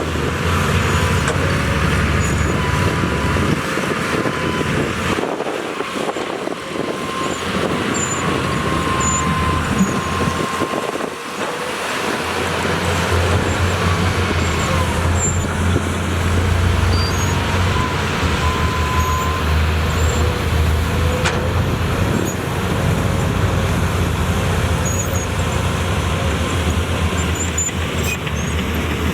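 Diesel engine of heavy earthmoving machinery running steadily under load, a deep rumble that eases off briefly twice, with a faint wavering whine above it.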